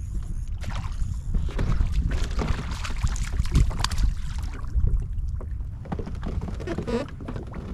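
Wind buffeting the microphone over water sloshing and splashing against a small craft, with irregular splashes and knocks.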